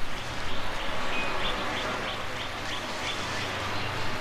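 A bird calling a quick series of short, high, evenly spaced notes, about four a second, for about two seconds, over a steady background hiss.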